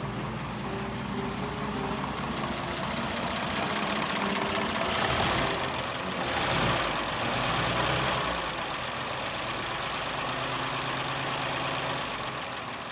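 The 1926 Oakland's engine running, with a swell in loudness about five to eight seconds in, under background music.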